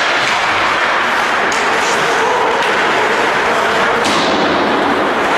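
Ice hockey game sounds: a steady rush of skates on ice, broken by a few sharp clacks of sticks and puck and thuds against the boards.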